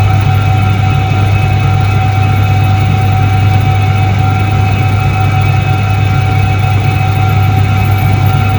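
1978 Soviet Iset-3 washing machine running steadily: an even low motor hum with a steady whine above it.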